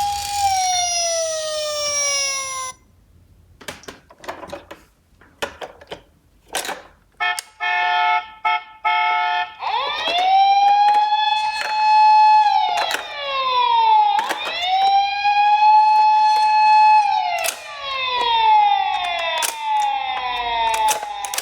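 Electronic toy sirens from emergency-vehicle minicars, with the clicks and clatter of the little cars on cardboard. A falling siren tone first, then a short quiet stretch of clicks and a choppy pulsed tone. Then a wail that rises, holds and falls, twice, and near the end faster falling sweeps.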